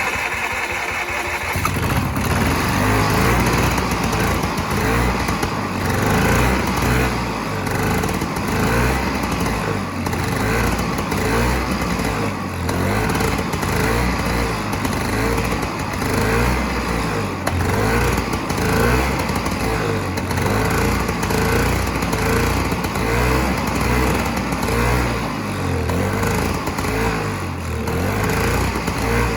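Vintage Sno King snowmobile's 372 two-stroke engine with a Mikuni carburettor, running on gas squirted in by hand just after starting. It runs continuously with an uneven pulsing beat, its speed rising and falling a little.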